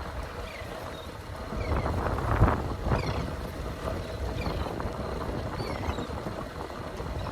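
Small boat rocking on open water: water sloshing against the hull, with wind buffeting the microphone. A louder rush of water and knocking swells up about two seconds in and peaks at about two and a half seconds.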